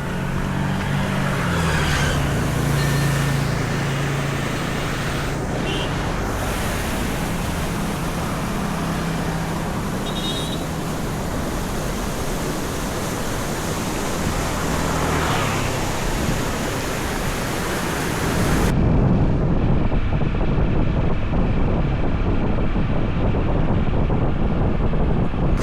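Steady rush of wind on the microphone over a running vehicle engine, its low hum shifting in pitch now and then; it turns rougher and more muffled after a sudden cut about three-quarters of the way through.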